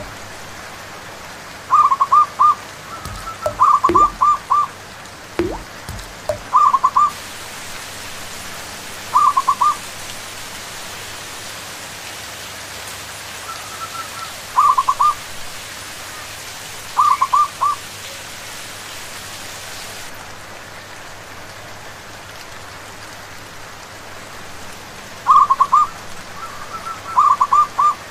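Zebra doves cooing in short bursts of three or four quick notes, about eight calls in all, over a steady hiss of rain. A few low thuds come in the first six seconds.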